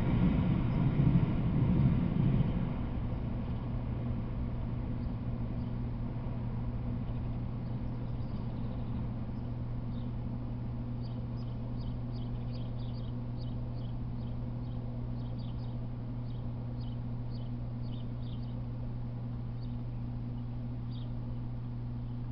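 The last of a passing freight train's rumble dies away over the first two or three seconds, leaving a steady low hum. From about eight seconds in, birds give many short, high chirps over the hum.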